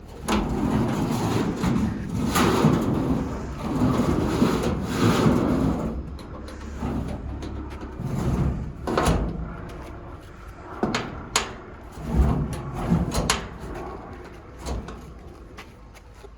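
Heavy roll-out drawers of a Pack Rat truck bed tool box sliding open and shut on freshly greased rollers, in several long rolling runs, with sharp knocks and clicks as they stop or latch.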